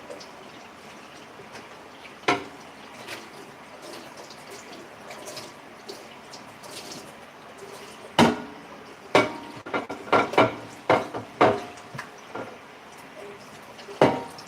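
Tap water running into a sink while a plate is washed, with dishes clinking and knocking now and then: once a couple of seconds in, then a quick run of knocks in the second half, and one more near the end.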